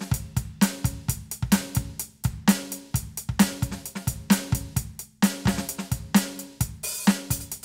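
Roland TD-17KVX electronic drum kit played in a steady groove through its sound module. Snare hits land about once a second over kick drum, hi-hat and cymbals.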